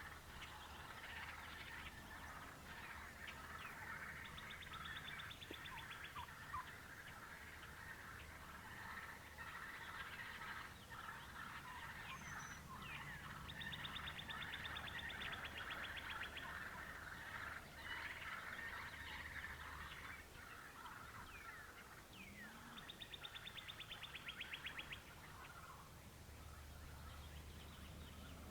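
Chorus of wild songbirds: many overlapping chirps and whistles, with a fast, high, even trill sung three times about ten seconds apart.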